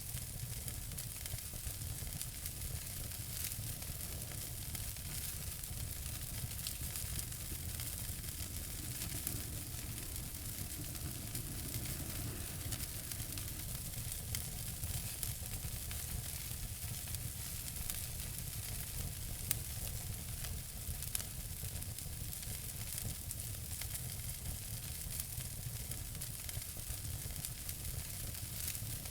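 Wood fire burning in a fireplace: a steady hiss with frequent small crackles, and a couple of louder pops about two thirds of the way through.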